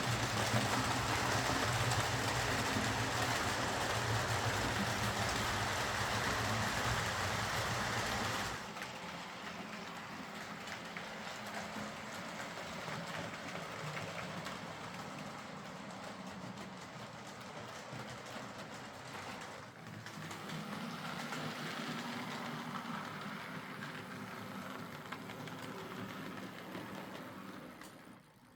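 Hornby Class A4 OO gauge model locomotive with a Ringfield tender-drive motor running steadily along model railway track. It is louder for the first eight seconds or so, then quieter, swells again about twenty seconds in and fades away near the end. It runs smoothly after repair, with no sign of the rods catching on the body.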